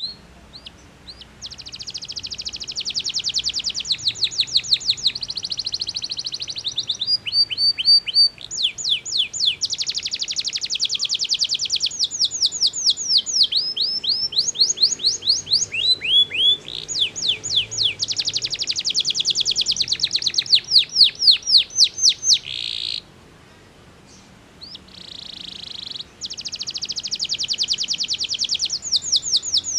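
Domestic canary singing: long, fast trills of high repeated notes, some sweeping down in pitch, in phrases broken by short gaps and a pause of a few seconds near the end.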